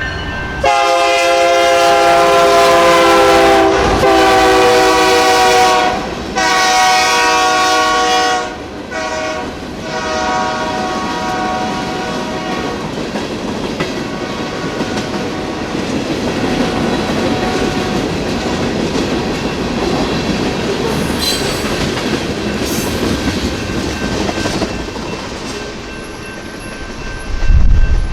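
Diesel freight locomotive sounding its air horn for the grade crossing: two long blasts and a brief third one. The train then rolls past with a steady rumble and wheels clacking over the rail joints, and a loud low thump comes near the end.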